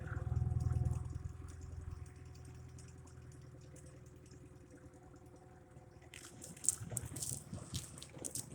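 A small boat's motor is throttled up suddenly and then runs steadily under load, pushing into ice. From about six seconds in, sharp crackling and clicks from broken ice against the hull join it.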